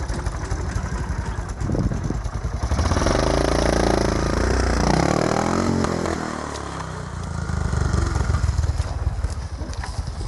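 Honda CRF250 dirt bike's single-cylinder four-stroke engine revving up and easing off, loudest in the middle, then revving again near the end.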